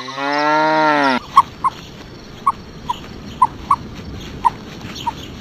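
A cow mooing: one long low call that rises slightly in pitch, then falls and cuts off about a second in. It is followed by a steady hiss with a dozen irregular, short, sharp clicks or chirps, the loudest coming right after the moo.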